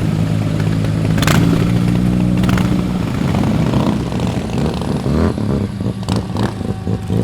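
Car engine idling steadily, then revving, its pitch rising and falling. Two sharp clicks come in the first few seconds.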